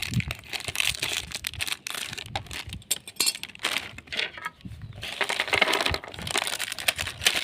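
Plastic snack packet crinkling and rustling as it is opened and searched through, with the crunchy snacks inside rattling in many quick clicks.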